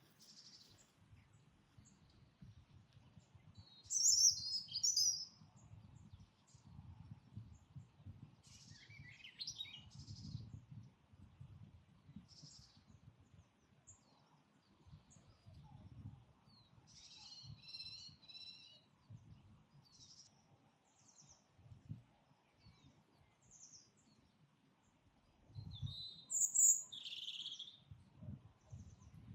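Wild birds singing and calling in scattered short phrases, loudest about four seconds in and again near the end, over a faint low rumble.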